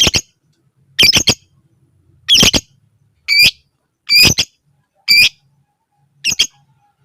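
Lovebird giving short, shrill, harsh squawking calls, seven in a row about one a second.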